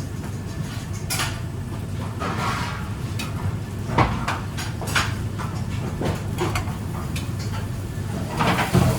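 Kitchen handling sounds: scattered knocks and clinks of dishes and containers being moved, the sharpest about four seconds in and a small cluster near the end, over a steady low hum.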